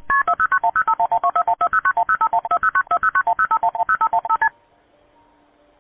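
Rapid run of telephone touch-tone (DTMF) keypad beeps, about nine a second, with the thin sound of a phone line. They stop abruptly about four and a half seconds in.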